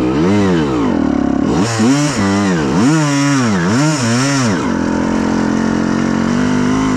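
Honda CR125R's two-stroke single-cylinder engine revved up and down in about five quick throttle blips, then running at a steady lower pitch from about five seconds in.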